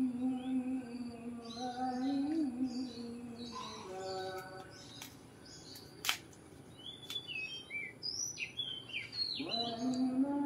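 Oriental magpie-robin (kacer) calling with short, varied whistled chirps, densest in the second half. Background music with a long held note plays in the first few seconds and returns near the end, and a single sharp click sounds about six seconds in.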